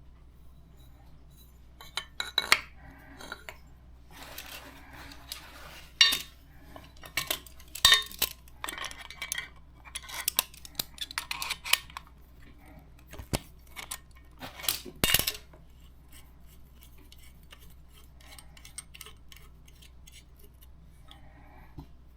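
Metal clinks, taps and scrapes of tools and copper pipe fittings being handled while a compression joint is made up. They come in irregular clusters, with a few sharp clanks the loudest, and die away after about fifteen seconds.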